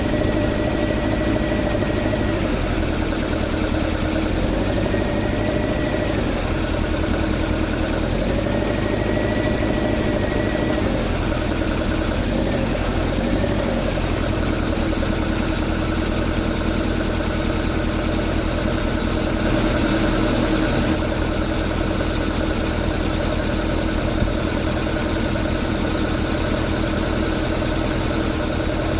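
A swapped AE101 4A-GE engine idling steadily in an AE86, its note sagging briefly a few times in the first half, then holding even.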